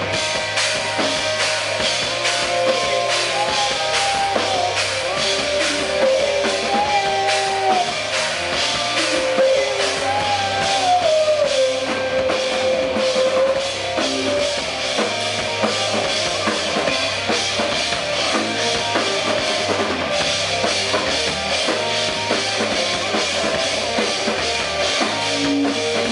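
Rock band playing: a drum kit beating steadily under guitar, with a lead melody sliding between notes in the first half.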